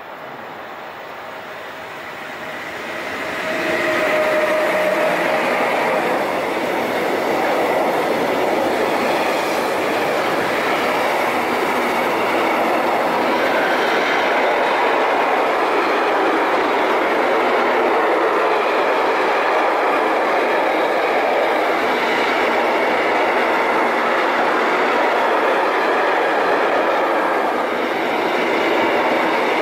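Train running past on the Gotthard mountain railway, its wheels running on the rails. The noise grows over the first few seconds and then holds loud and steady, with a brief tone about four seconds in.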